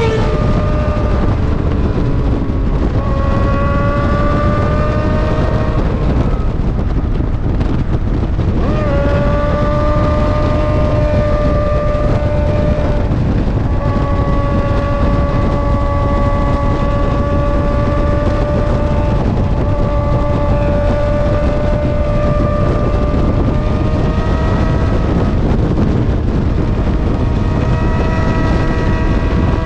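Suzuki GSX-R sport bike engine under way at speed: the revs climb a few seconds in, fall back, jump up again and then hold a long steady cruise, with smaller rises and dips near the end. Heavy wind rush on the microphone runs underneath.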